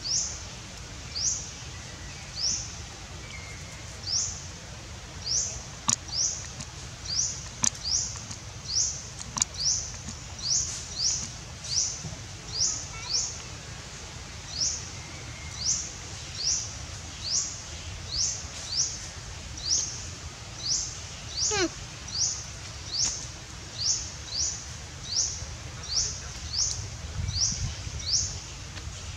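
A small bird repeating a short, high, rising chirp, a little more than once a second.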